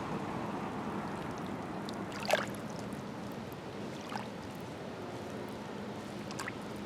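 Small lake waves lapping and splashing against the shore in a steady wash. A few sharper splashes stand out, the loudest about two seconds in and smaller ones near four and six seconds.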